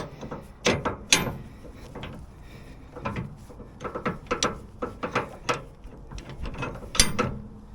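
Irregular metal clicks and clanks of a tractor's three-point hitch top link being extended by hand-turning its threaded barrel, with one sharper clank about seven seconds in.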